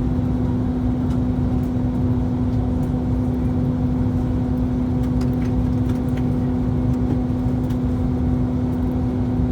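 Airbus A321-231 cabin noise in descent: the steady rumble of its engines and airflow, with a constant low hum.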